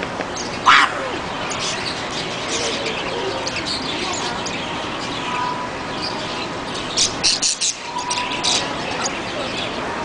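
Small caged birds chirping and twittering in many short high calls, with one loud call less than a second in and a quick run of sharp, louder chirps about seven seconds in.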